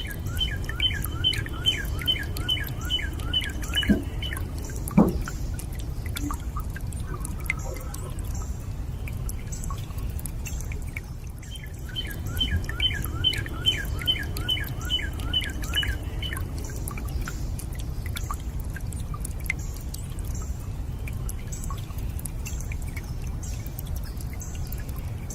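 Water running with a steady low rush, and a couple of drops plinking about four and five seconds in. A bird sings a fast run of repeated high notes twice, near the start and again about halfway through.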